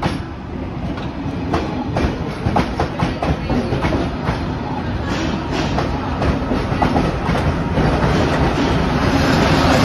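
Passenger coaches rolling past during shunting, their wheels clicking and knocking over rail joints, with the MÁV Class M44 diesel shunting locomotive growing louder as it draws near toward the end.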